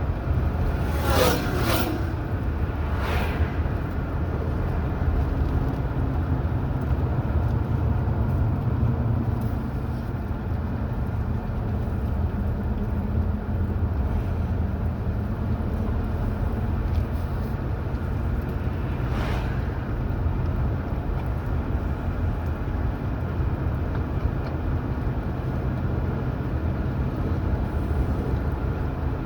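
Car driving at road speed, a steady low rumble of engine and tyre noise, with a few brief swishes, about a second in, shortly after, and again around the middle.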